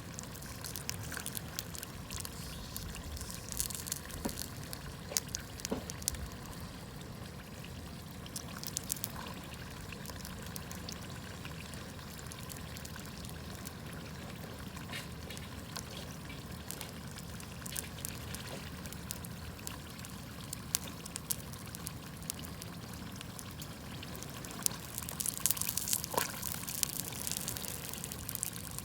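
Wood campfire crackling and popping in irregular sharp snaps, with a steady low rush underneath. The snapping grows denser near the end.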